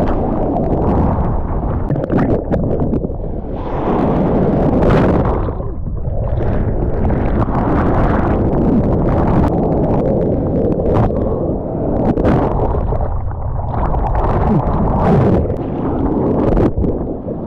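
Heavy wind buffeting the microphone over a rushing, splashing water noise, as from a boat under way on open sea, with frequent sharp crackles from the buffeting.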